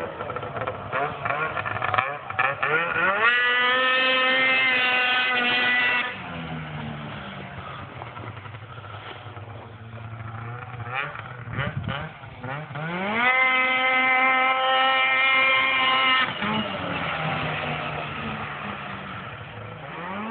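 A 2007 Arctic Cat M6 snowmobile's two-stroke twin engine, fitted with an HPG 2-stage aftermarket exhaust, is revved up twice from idle. Each time it holds high revs for about three seconds, then drops back to an uneven idle.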